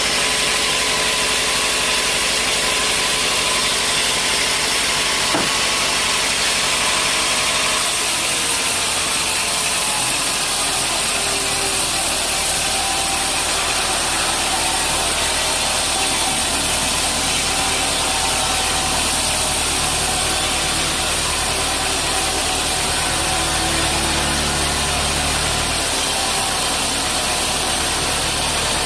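Sawmill machinery running steadily, a continuous mechanical noise with a strong hiss and a low hum that shifts in pitch a few times.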